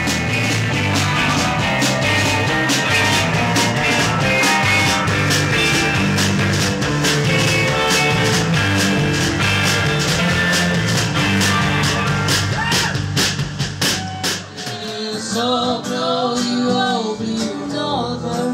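A band playing loud rock music with a steady drum beat. About three-quarters of the way through it gives way to a softer song with singing and guitar.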